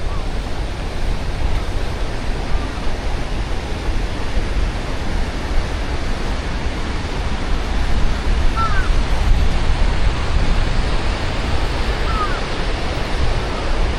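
Wind rushing over a body-mounted action camera's microphone while running: a steady, loud roar that is heaviest at the low end. A few faint short chirps rise above it late in the clip.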